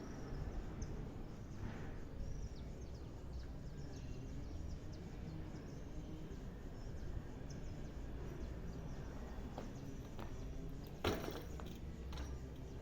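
Steady low outdoor background rumble with faint bird chirps, and one brief sharp knock about eleven seconds in.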